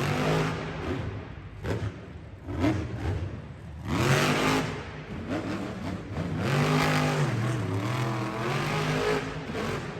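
Monster truck engine revving hard several times, its pitch climbing and dropping with each burst of throttle.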